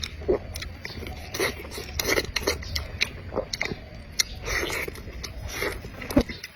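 Close-miked eating: biting and chewing food, with irregular sharp mouth clicks and soft wet chews.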